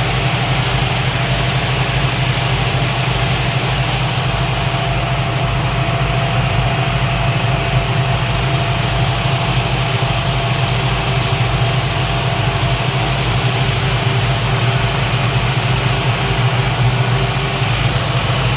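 Speedboat engines running steadily under way, a constant low hum with a steady hiss of wind and water over it.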